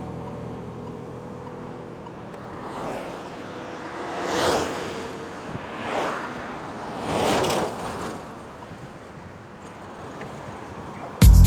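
Road traffic passing: four vehicles go by one after another, each a swell of tyre and road noise that rises and fades over about a second, over a steady outdoor noise bed. Loud music cuts in suddenly at the very end.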